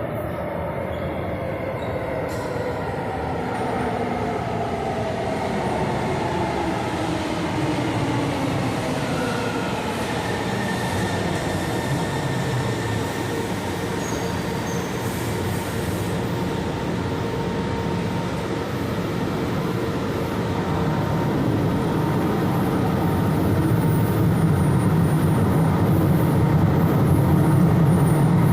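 Metro train running on its rails: its motors whine in several tones that fall in pitch over the first ten seconds or so as it slows, over a steady rumble of wheels on the track. The rumble grows louder near the end.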